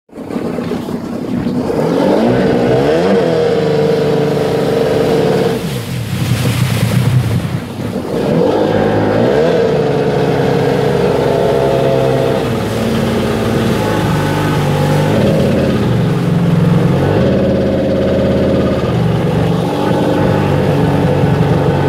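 Sea-Doo XP personal watercraft's two-stroke engine running and being revved unevenly, misfiring because a faulty voltage regulator is letting 17 volts reach the ignition. The revs climb about two seconds in and again around eight seconds, with a dip near six seconds.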